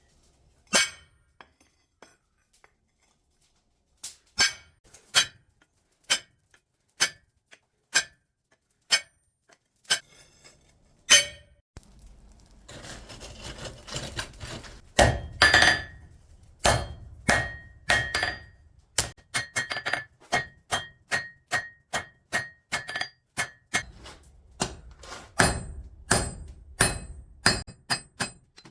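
Hammer blows on steel at the anvil while forging a sickle: scattered single blows at first, then a steady run of about two blows a second, each ringing. About halfway there is a short stretch of rough noise between the blows.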